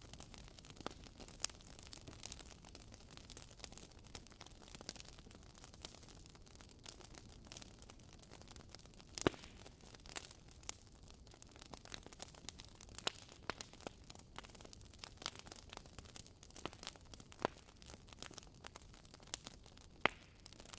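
Firewood burning in a fireplace, crackling: a steady scatter of small sharp pops and snaps over a faint hiss. A louder pop comes about nine seconds in and another near the end.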